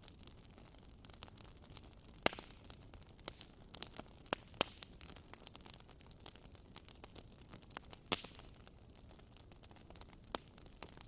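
Campfire crackling: irregular sharp pops from burning wood, the loudest about two seconds in and again about eight seconds in, over a faint steady hiss.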